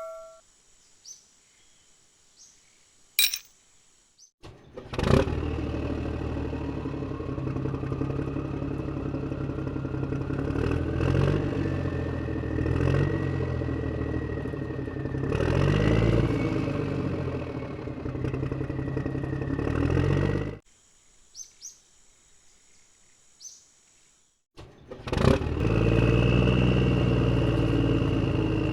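The mini tractor's motor starts about five seconds in and runs steadily with a low pulsing rumble and a whine that rises slowly in pitch. It cuts off suddenly and, after a few seconds' pause, starts again near the end.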